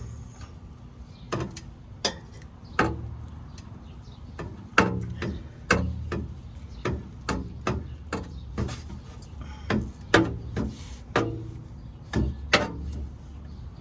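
A run of about twenty sharp metal knocks and clanks at uneven intervals, each ringing briefly, from steel exhaust pipe sections being worked on and fitted together. A steady low hum runs underneath.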